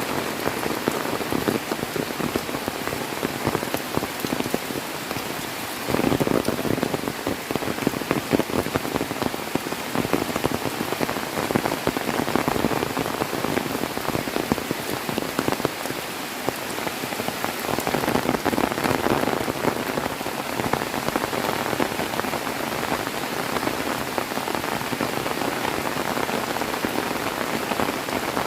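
Heavy rain pouring down, a dense crackling patter of drops that swells louder about six seconds in and again near the middle.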